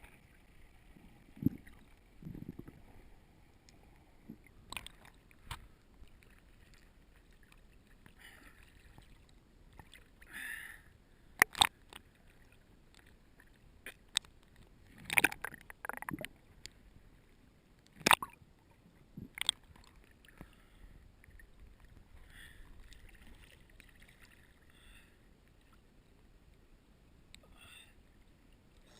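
Sounds aboard a boat: scattered sharp knocks and clicks, about a dozen, over a quiet background with faint water sloshing.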